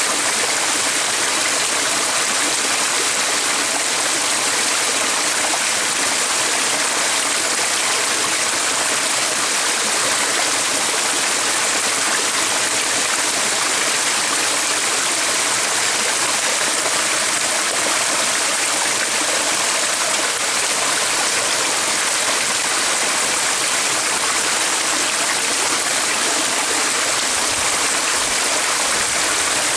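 A stream of running water rushing steadily, an even hiss with no breaks or changes.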